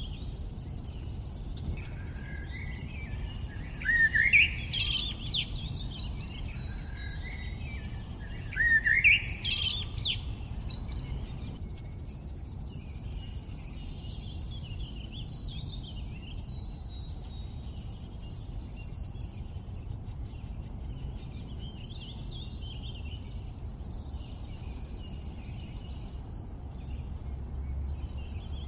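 Several birds chirping and trilling, with two louder rising calls about four and nine seconds in, over a low steady rumble.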